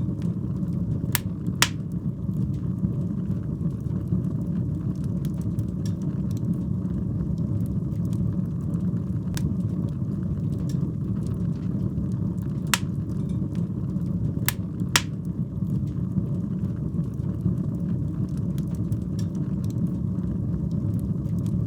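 Fire burning in a fireplace: a steady low rumble of flames with scattered crackles and a handful of sharp, loud pops.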